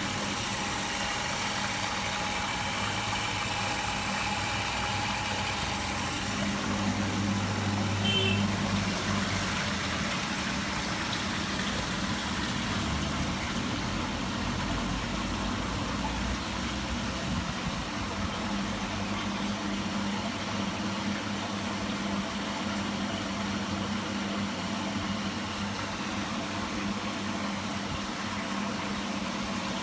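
Stainless-steel bottle-washing machine running: a steady motor hum over an even hiss, a little louder about eight seconds in.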